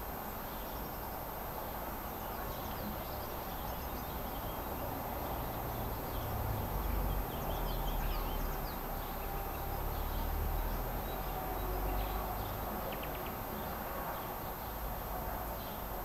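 Small birds chirping and singing, short high calls scattered throughout over steady outdoor background noise. A low rumble swells in the middle of the stretch and fades again.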